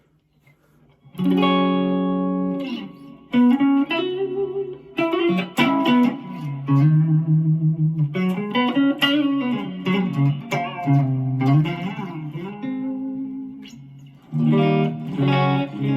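1992 Gibson Les Paul Custom electric guitar with Oil City Scrap Yard Dog+ humbuckers played through an amp's clean channel: ringing chords and single-note phrases starting about a second in, with a strummed chord near the end.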